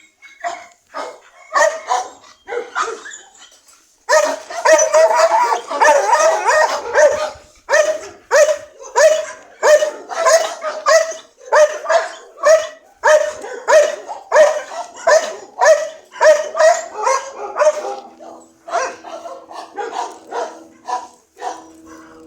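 A dog barking over and over, about two barks a second, with a dense stretch of rapid barks a few seconds in.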